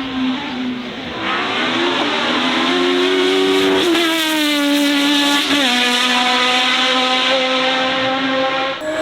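High-performance car engine revving hard and held at high revs, its pitch dipping briefly twice, with tyre squeal.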